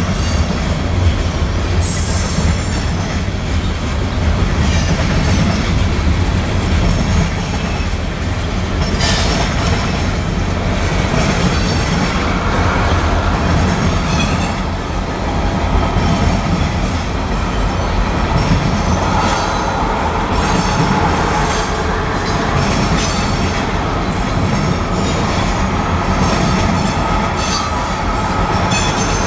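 Freight cars of a passing train, covered hoppers and tank cars, rolling by at close range. There is a steady low rumble of steel wheels on rail with scattered sharp clicks, and from about twelve seconds in a thin, high wheel squeal that comes and goes.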